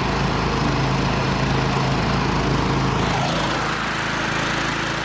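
Engine of a homemade karakat all-terrain vehicle running steadily under load as it crawls through deep snow in low gear, its note shifting slightly about three seconds in.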